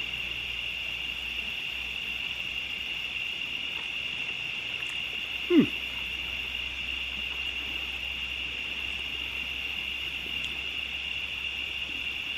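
Steady, unbroken chorus of insects trilling at one high pitch. About five and a half seconds in comes a single short sound that slides quickly down in pitch.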